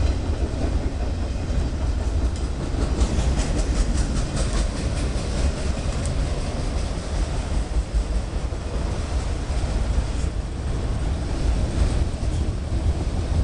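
Freight train of autorack cars rolling past at close range, with a steady rumble. A run of rhythmic wheel clicks over rail joints comes a few seconds in.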